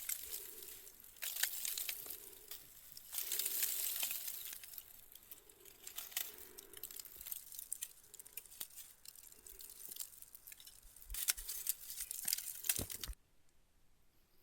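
Dry rustling and crackling in uneven bursts, with many sharp clicks and snaps, cutting off suddenly near the end.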